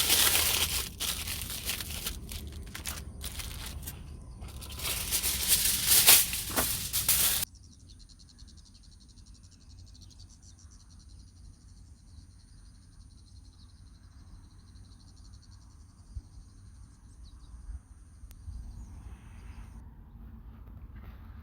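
Loud crinkling and crackling for about seven seconds, then a sudden drop to a quiet outdoor background with a low wind rumble and faint steady high-pitched tones.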